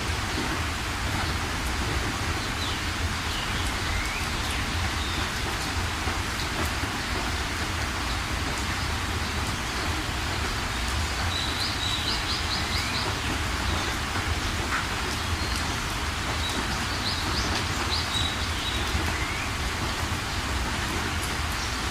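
Steady rain with a low rumble underneath, and small birds calling through it: short rising and falling chirps, and quick trills of rapid notes twice in the second half.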